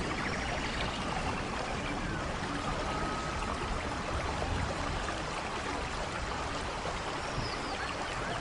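Steady rain: an even hiss of falling and running water, with a few faint high chirps near the end.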